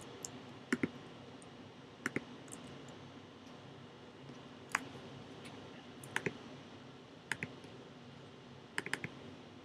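Computer mouse clicking: short sharp clicks, mostly in quick pairs, every second or two.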